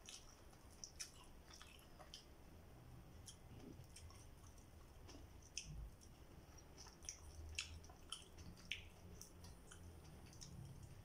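Faint mouth sounds of a person eating fried fish and rice by hand: chewing with soft, scattered wet clicks and smacks.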